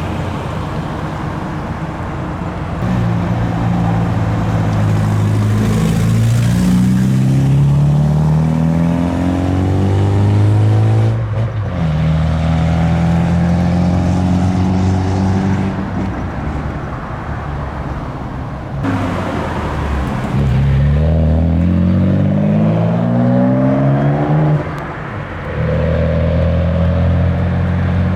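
Car engine revving hard: its pitch climbs in two long sweeps that cut off sharply, with the engine running steadily in between.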